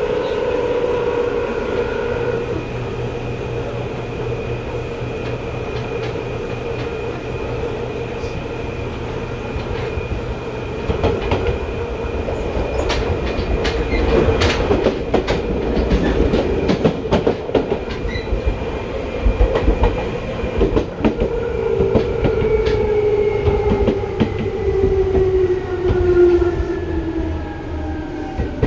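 Seibu 2000 series electric train running, heard from inside: a steady motor whine with several tones, then rapid clicking of wheels over rail joints through the middle. In the last several seconds the whine falls in pitch as the train slows.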